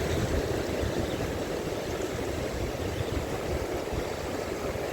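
Steady rushing noise of sea water and wind, heaviest in the low range, with no distinct clicks or knocks.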